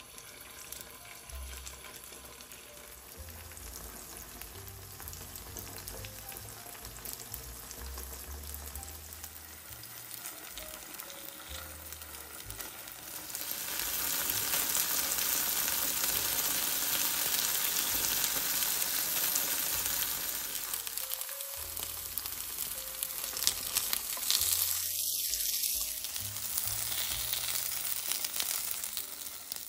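Silken tofu slices sizzling as they shallow-fry in hot oil in a nonstick frying pan. The sizzle gets louder about halfway through. Near the end come a few sharp clicks and scrapes as a silicone spatula turns and lifts the pieces.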